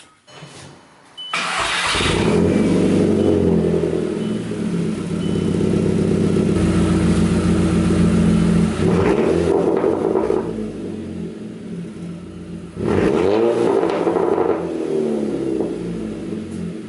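A VW Jetta GLI's turbocharged 2.0-litre four-cylinder is started about a second in and heard from the tailpipe, running steadily, then revved up and let fall twice in the second half. It is being test-run with a freshly replaced diverter valve, chasing a no-boost fault.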